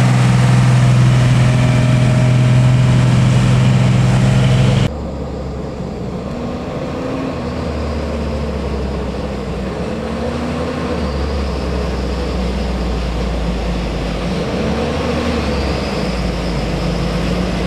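Heavy truck diesel engine running under load, a loud steady drone. About five seconds in the sound cuts abruptly to a quieter, deeper engine drone whose pitch rises and falls slowly.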